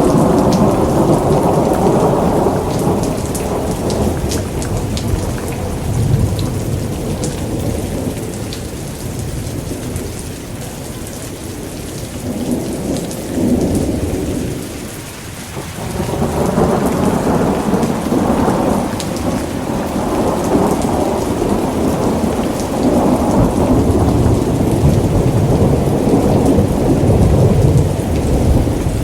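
Thunderstorm: steady rain with rolling thunder. One long rumble fades to a brief lull about halfway through, then another rumble builds and carries on to the end.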